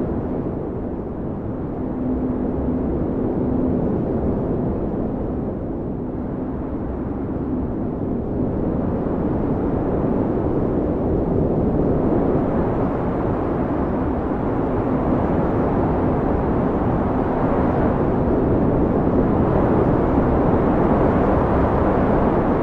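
Blizzard wind: a loud, deep, steady rush of howling wind that swells and eases slowly, growing stronger in the second half.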